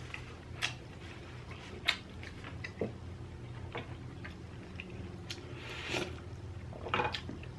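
Close-miked chewing of inari sushi, rice in fried bean curd pockets: scattered short wet mouth clicks and smacks, with a steady low hum underneath.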